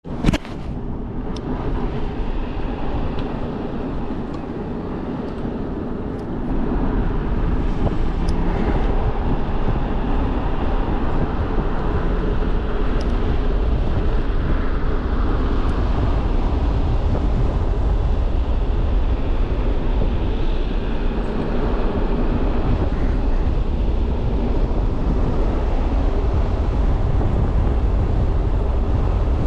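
Motorcycle running steadily, getting louder about six seconds in and then holding level.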